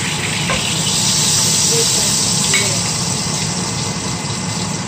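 Chicken sizzling in hot oil in a frying pan, a steady hiss, with a couple of faint clicks.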